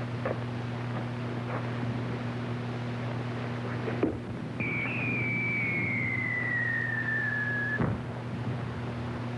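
A single long whistle falling slowly in pitch for about three seconds, starting about halfway through and cutting off with a thump. It sits over the steady hum of an old film soundtrack, with a few faint clicks near the start.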